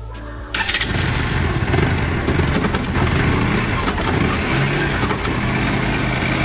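Motorcycle engine starting about half a second in, then running steadily at idle. It is not making much noise after its sound problem was fixed by cleaning.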